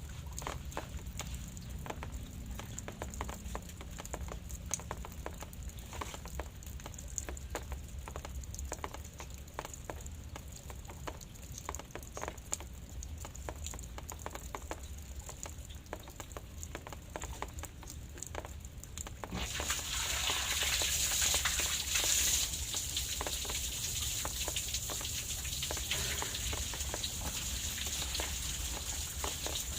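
Light rain falling: scattered drops pattering and ticking, then about two-thirds of the way through the rain picks up into a denser, steady hiss.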